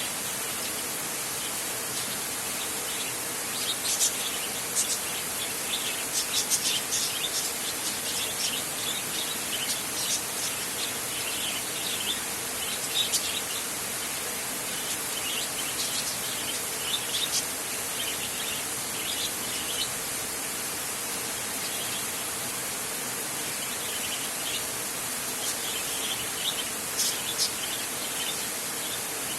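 Steady hiss of heavy rain on a tin roof, with bursts of short, high bird chirps from about four seconds in to about twenty, and again near the end.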